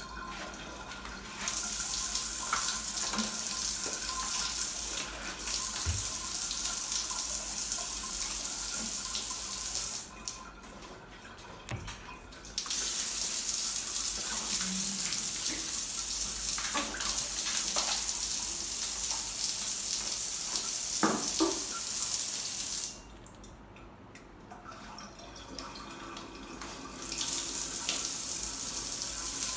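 Running water, on and off: a steady gush starts about a second in, stops for a couple of seconds near the middle, runs again for about ten seconds, pauses, and starts once more near the end.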